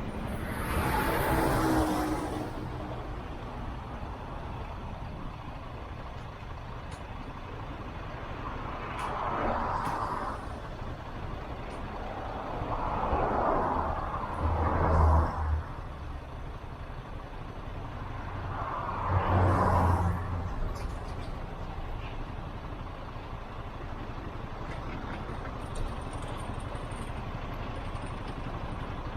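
Road traffic over a steady low engine and road hum, with vehicles passing by in four swells that each build and fade over a second or two.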